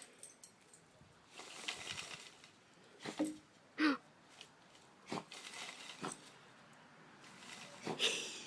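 A dog sniffing and snuffling in short faint bursts at a tube holding a chipmunk nest. There are a few light clicks, and one brief squeak just under four seconds in.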